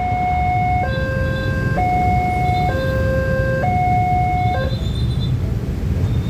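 Railway level-crossing warning alarm sounding its two-tone high–low signal, each tone held just under a second, then stopping about four and a half seconds in, over a steady low rumble.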